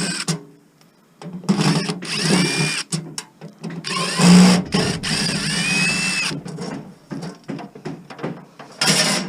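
Power drill driving screws out of a metal light fixture's housing. It runs in bursts: a short run, a longer run of about three seconds and a brief one near the end, its whine rising and falling as the trigger is worked. Knocks and clicks from the fixture come between the runs.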